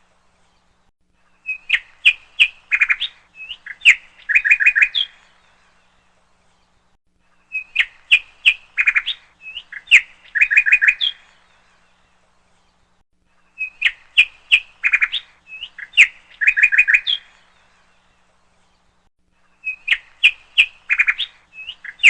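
A bird chirping: a phrase of quick chirps and short trills, about three seconds long, repeated the same way about every six seconds with silent gaps between.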